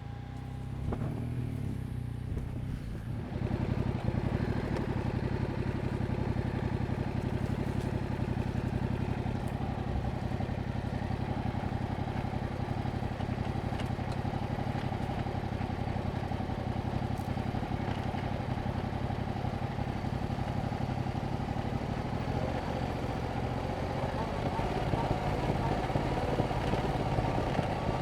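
2021 Yamaha MT-07's parallel-twin engine running through its stock exhaust while riding. The engine note picks up about three and a half seconds in, then holds steady, growing a little louder again near the end.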